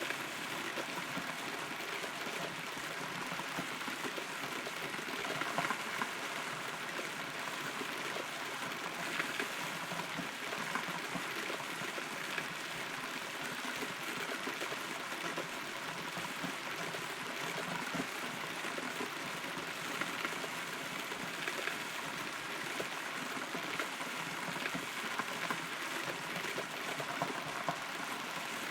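Steady rain falling, recorded from inside a hollow rotten tree, with individual drops ticking here and there.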